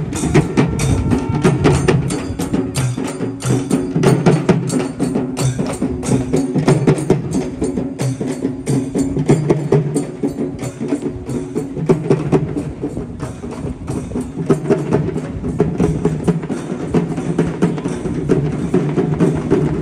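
Percussion music: fast, dense drumming with sharp strokes many times a second over steady low tones.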